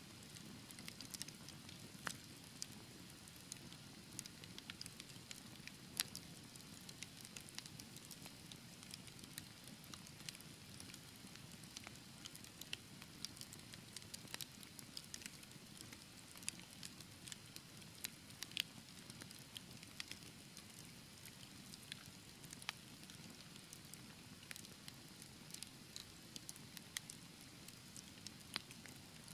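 Fire in a fireplace crackling: frequent sharp pops and snaps over a low, steady rush of flame, with one louder pop about six seconds in.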